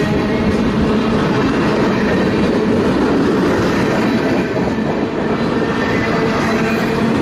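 A train rolling past close by on the nearest track: its cars' wheels clattering over the rails in a steady, loud rumble.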